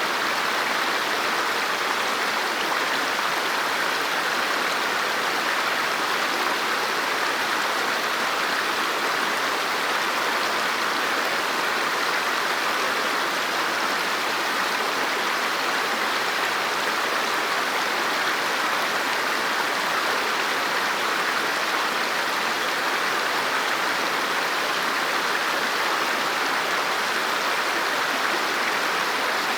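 River water flowing over rocks: a steady, even rush that does not change.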